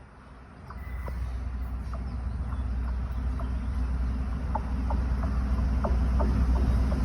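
Low rumble of a local train approaching, starting about a second in and building steadily louder, with short high-pitched chirps or squeaks scattered over it.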